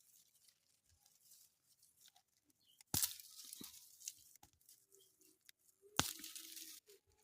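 Dry garden vegetation crackling and rustling: two short, sharp crunches about three and six seconds in, with faint ticks and rustles between them.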